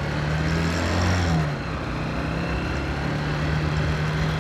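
Honda CBF 125's single-cylinder four-stroke engine running under way, with a brief rise and dip in revs about a second and a half in, and wind noise over the microphone.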